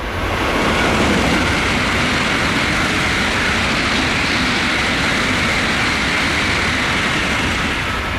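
Tokaido Shinkansen bullet train passing through the station at high speed without stopping: a loud rush of wind and rail noise that swells sharply at the start, holds steady for several seconds, and begins to fade near the end.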